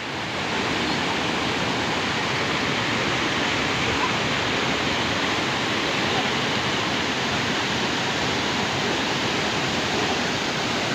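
Steady rush of a waterfall's falling water, even and unbroken.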